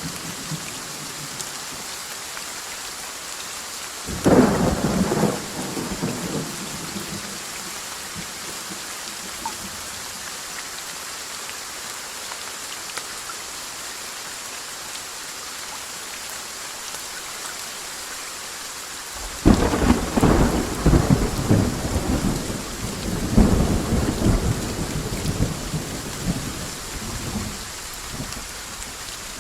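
Steady rain falling, with a sharp thunderclap about four seconds in and a longer rolling peal of thunder that breaks suddenly about nineteen seconds in and rumbles on for several seconds.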